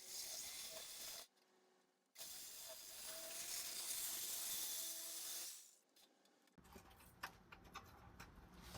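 Two bursts of hissing spray, the first about a second long and the second about three seconds, followed by a low rumble with scattered light knocks.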